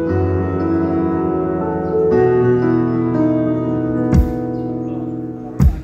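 Electric keyboard holding sustained chords through the stage PA during a band's sound check, moving to a new chord about two seconds in and again a second later. Two low thumps come near the end.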